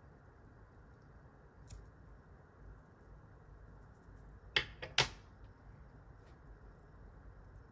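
Small scissors snipping: two sharp snips about half a second apart, with a lighter click between them, and a faint click earlier.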